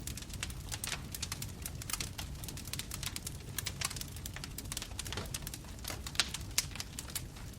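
Bonfire burning: wood crackling and popping in irregular sharp snaps over a steady low rumble of the flames.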